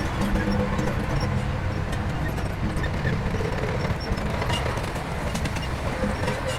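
Heavy diesel engine of earth-moving equipment running steadily under load: a dense low rumble with a faint steady engine hum.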